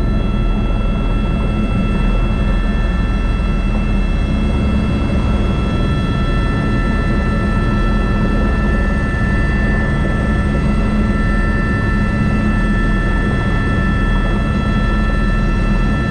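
Airbus AS350 B3 (H125) single-engine turbine helicopter running steadily in flight: a constant low rotor and engine drone with a steady high turbine whine of several tones over it.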